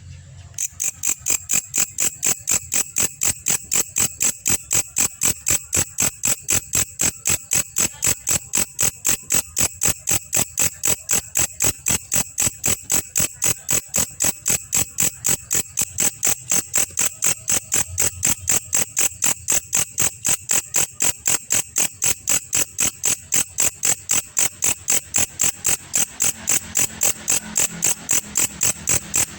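Belalang kecek insect calling: a steady, evenly spaced train of short, sharp, high-pitched chirps, about three a second, starting about half a second in.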